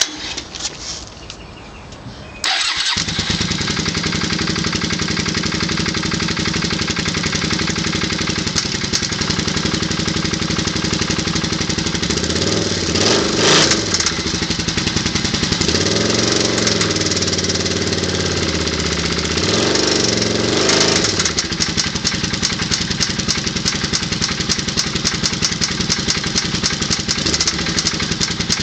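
Suzuki VZ800 Marauder's V-twin engine starting about two and a half seconds in, then running with a bad knocking sound and blipped to higher revs three times in the middle. The knock comes from a spun big-end connecting-rod bearing.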